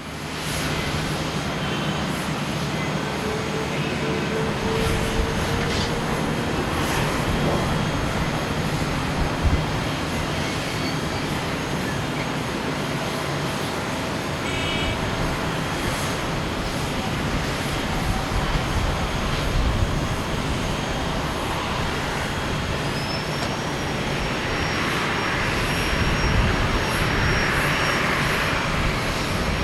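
Jet airliner engines running at low power, a steady broad rumble and hiss. Near the end a louder rushing hiss swells up and dies back.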